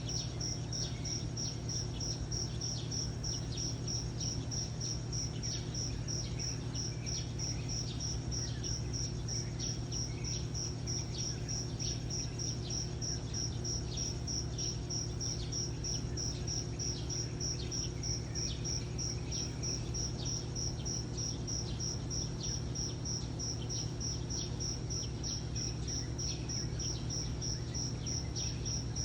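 A cricket chirping steadily at one high pitch, about three chirps a second without a break, over a low steady hum.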